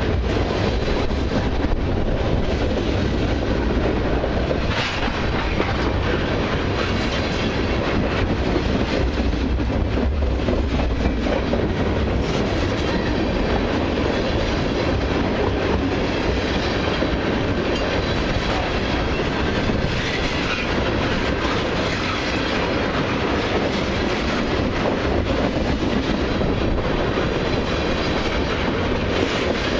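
Long freight train of autoracks and mixed freight cars rolling steadily past, wheels clicking over rail joints with a continuous rumble and occasional light wheel squeal.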